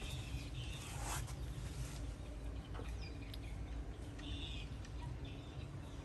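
Faint short bird chirps coming in several small clusters over a low steady rumble.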